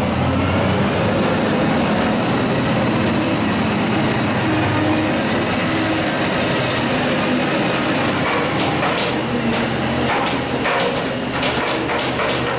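Heavy farm machinery running steadily, with a clattering rattle of knocks in the last few seconds.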